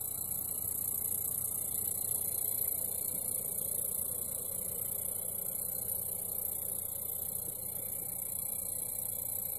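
Refurbished Xbox One console running with a steady buzzing, grinding noise from inside it, a fault in a console that should run quietly.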